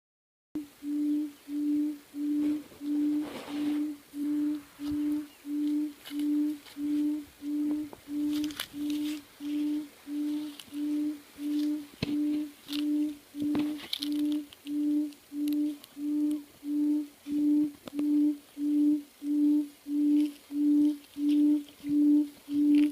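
A homemade electronic bird caller plays a recorded call through its small speaker. It is one short, low, hoot-like note repeated evenly about one and a half times a second, starting abruptly and growing a little louder toward the end. A few light clicks of handling sound over it.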